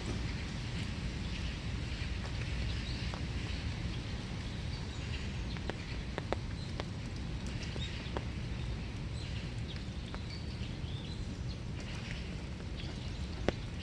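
Steady winter rain falling in woodland, with scattered drops striking close by as sharp single ticks. Small birds chirp in short calls throughout.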